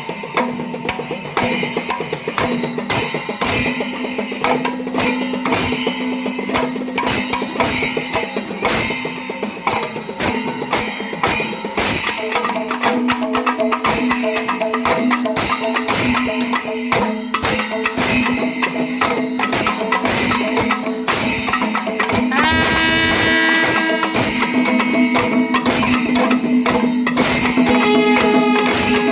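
Kerala temple melam: a traditional percussion ensemble playing dense, fast drum strokes with clashing hand cymbals over a steady held tone. About three-quarters of the way through, a pitched wind instrument glides in and sounds held notes over the drumming.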